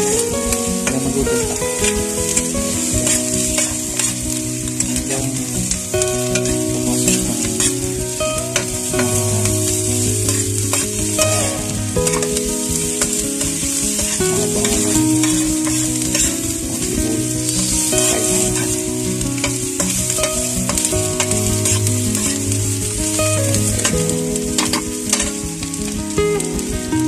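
Meat and green chilies sizzling in a hot pan with a steady hiss, while a metal spoon stirs them, clicking and scraping against the pan.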